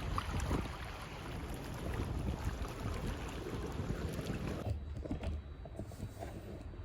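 Wind buffeting the microphone, an even rumbling noise; about two-thirds of the way through it cuts to a quieter, duller rumble.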